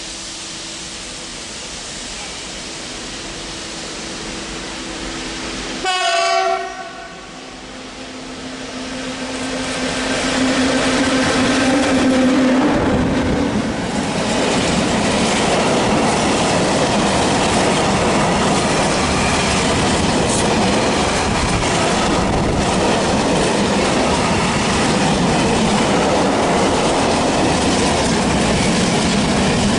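A train's horn gives one short blast about six seconds in, then a train comes close and runs past, its wheels clattering over the rail joints in a loud steady rumble.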